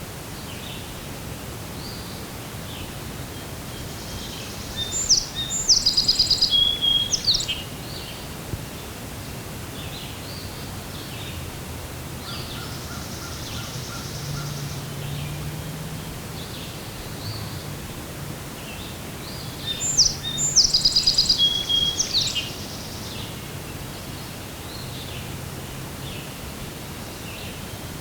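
Wild birds singing: one bird sings the same loud, complex song twice, about fifteen seconds apart, while other birds call faintly throughout over a steady outdoor hiss.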